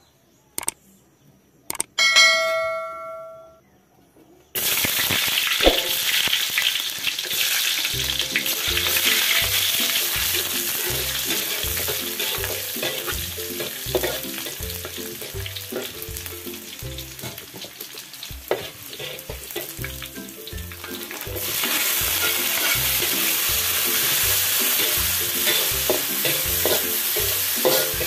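Chopped garlic hitting hot oil in a metal wok and sizzling loudly, stirred and scraped with a metal spatula. The sizzle starts suddenly about four and a half seconds in and grows louder again near the end as sliced chillies go in. Before it there are a few clicks and a short chime, and soft background music with a steady beat runs under the frying.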